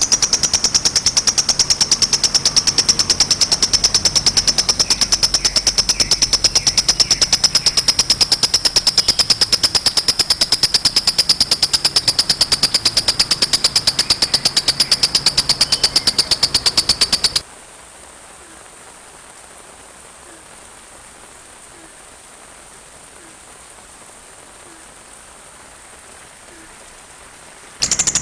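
Sunbird ('kolibri') song: a very fast, steady rattle of high trilled notes. The song cuts off suddenly about two-thirds of the way through, leaving a soft hiss of rain, and starts again right at the end.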